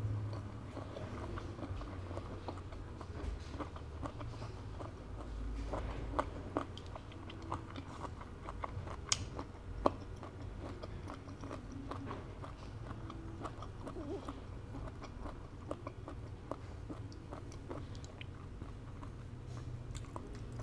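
Close-up chewing of tough, rubbery conch (sea snail) meat: soft wet mouth clicks and smacks, with a couple of sharper clicks about nine and ten seconds in.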